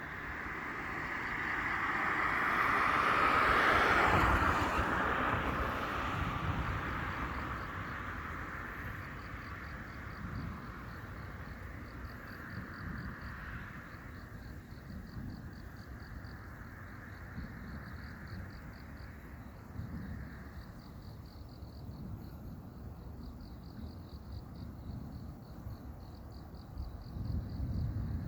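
A vehicle passing: its noise swells to a peak about four seconds in, then slowly fades away. A faint, steady, evenly pulsing high chirping goes on throughout, with low rumbles of wind or handling.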